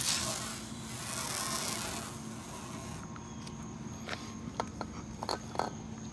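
Rubbing and scraping on a plastic headlight lens during restoration, for about three seconds, followed by a few light clicks and taps.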